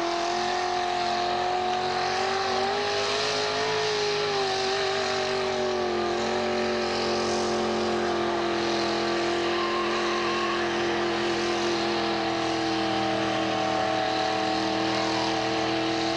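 Mud-racing car's engine held at high, nearly steady revs as the car churns slowly through the mud pit. The pitch wavers slightly and settles a little lower about five seconds in.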